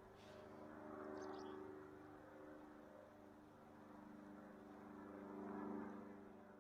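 Faint, steady drone of a distant engine, swelling about a second in and again near the end. A few faint, high, short chirps come about a second in.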